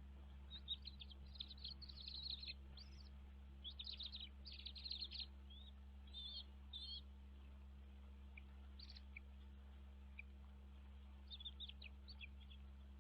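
Bird chirping in several quick bursts of short, high calls, with a pause in the middle, over a steady low hum.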